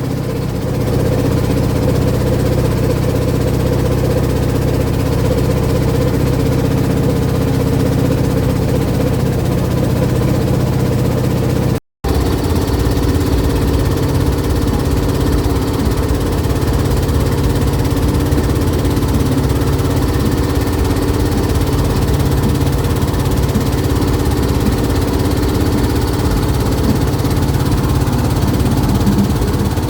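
Long-tail boat engine running steadily under way, a constant low drone; the sound cuts out for an instant about twelve seconds in and carries on.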